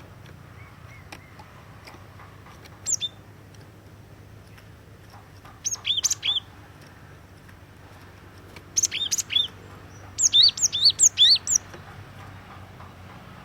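Cinereous tit (gelatik batu) calling in short, high, down-slurred notes. A single note comes about 3 s in, then a group of three, a denser cluster, and a final run of five, the loudest. A steady low hum runs underneath.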